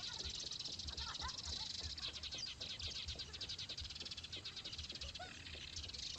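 Sparrows chirping in short scattered calls over a steady, high-pitched rapid buzzing, with irregular low thuds.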